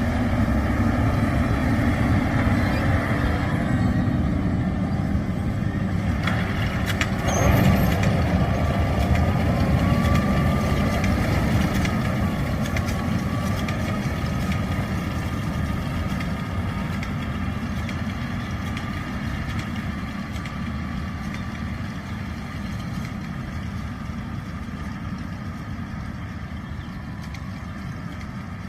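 John Deere 6R 250 tractor engine running steadily while pulling a ROC RT 730 hay rake, with a single loud clunk about seven seconds in. The sound then gradually fades as the tractor moves away.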